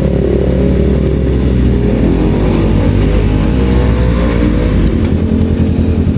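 Motorcycle engine running on the road, its pitch rising for a couple of seconds as it speeds up, then dropping to a lower, pulsing note about five seconds in.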